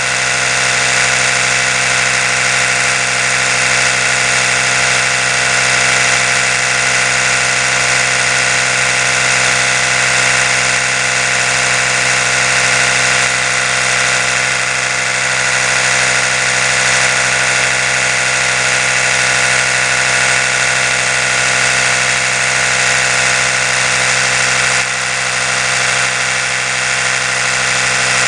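Oral-B electric toothbrush running continuously with a steady high buzzing hum, dipping slightly about 25 seconds in.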